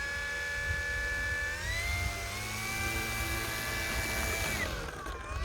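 Brushless electric motor and propeller of an E-flite Night Timber X RC plane whining as it taxis. The pitch steps up about two seconds in, holds steady, then falls near the end as the throttle is eased back.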